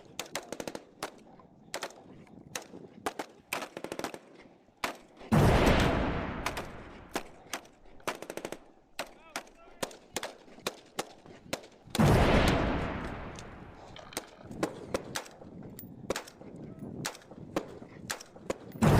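Airsoft replicas firing sharp single shots at irregular intervals. About five and twelve seconds in, two loud, sudden noises each die away over a couple of seconds.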